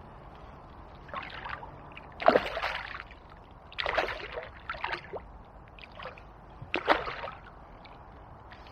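Irregular water splashes and sloshing at the river's edge, half a dozen bursts about a second apart, as a freshly landed chub is handled.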